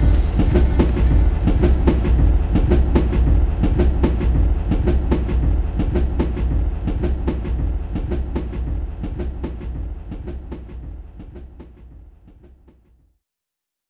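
Train running on rails: wheels clattering over the rail joints in a steady rhythm over a low rumble. It fades out gradually and stops just before the end.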